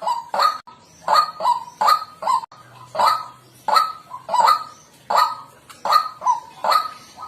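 White-breasted waterhen calling: a steady run of repeated 'kwak' notes, about two a second and often in pairs, each short and dropping slightly in pitch, the bird's characteristic call.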